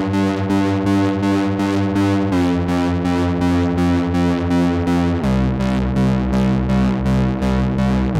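Behringer 2600 analog synthesizer playing a sustained, rhythmically pulsing tone at about four pulses a second. The pitch steps down twice, about two seconds in and about five seconds in, sliding briefly into the second note.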